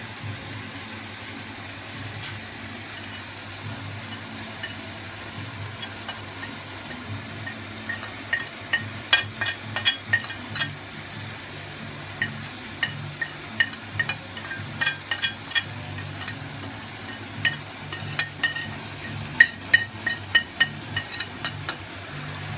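Chicken, onion and tomato frying in oil in an aluminium pot, with a steady sizzle. From about eight seconds in, a spoon clinks sharply and repeatedly against a ceramic plate and the pot as spices are spooned in.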